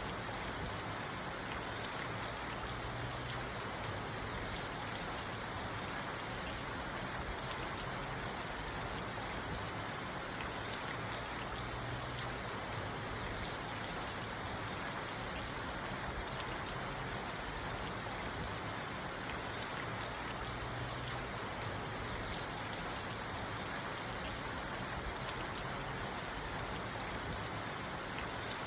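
Steady rain falling on a parked car, heard from inside the car, with no thunder.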